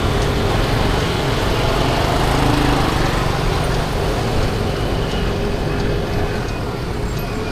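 50cc scooter running at low speed in dense city traffic, its small engine and the surrounding traffic blending into a steady, loud rumble.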